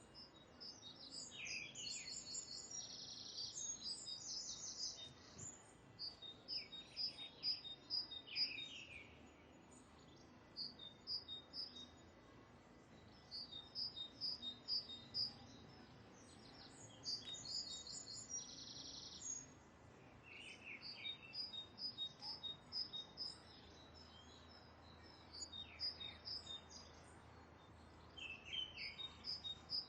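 Birds singing: repeated phrases of quick, high chirping notes, one phrase after another with short gaps, over faint outdoor background noise.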